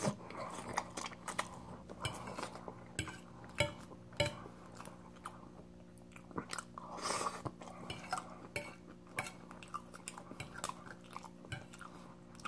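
Close-up chewing of a mouthful of chicken Alfredo pasta with corn, with scattered small clicks of a metal fork against the plate as the next forkful is twirled.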